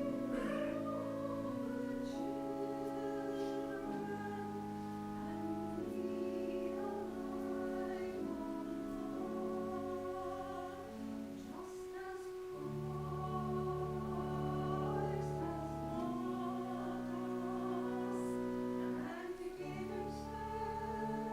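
A church choir singing slow, sustained chords with instrumental accompaniment, the voices wavering with vibrato over steady low held notes.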